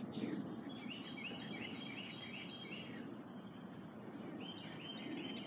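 A bird singing two quick series of short repeated notes, over low steady background noise.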